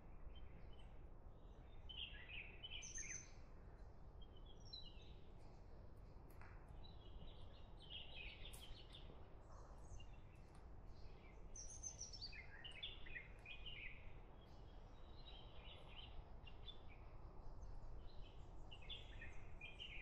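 Small birds chirping in short twittering phrases, faint and recurring every few seconds, over a low steady background rumble.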